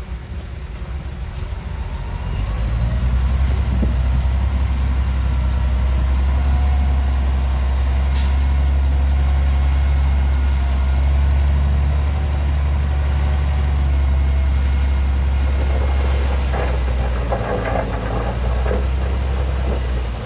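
Heavy diesel engine running steadily, growing louder about two seconds in, with a burst of metallic clatter near the end.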